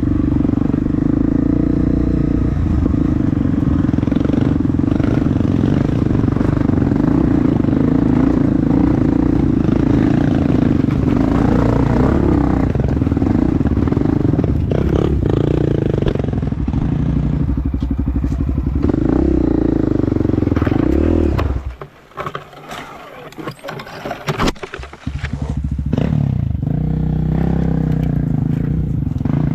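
Dirt bike engine running under varying throttle, its pitch rising and falling. About two-thirds of the way through, the engine sound drops away sharply for around three seconds, leaving scattered clatter, then picks up again.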